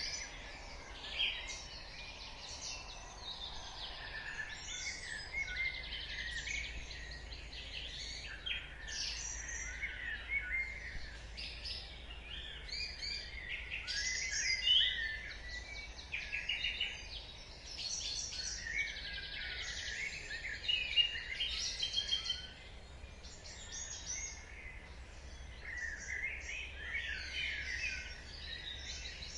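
Dawn chorus: many songbirds singing and chirping at once, with overlapping trills, short whistles and rapid chirps, over a faint low hum.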